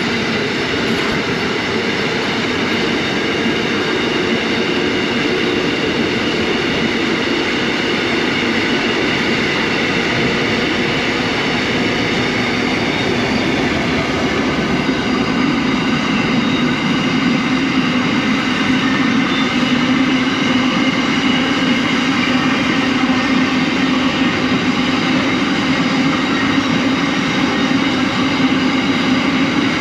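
Narrow-gauge diesel freight train with a long rake of tank and container wagons rolling past, a steady noise of wheels on rail that grows slightly louder in the second half.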